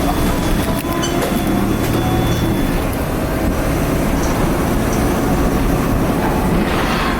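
Cabin noise of a 2010 Nova Bus LFS Articulated under way: the Cummins ISL diesel engine drones steadily under rattling body and road noise. A thin high whine from the turbo is heard over the first couple of seconds, then fades.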